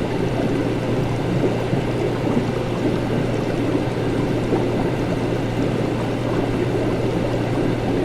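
Laboratory ambience: a steady low hum of equipment under continuous bubbling, gurgling liquid, with no change in level.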